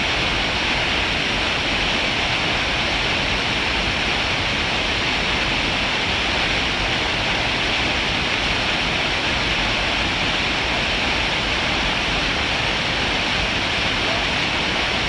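Waterfall rushing: a steady, loud hiss of falling water with no change in level.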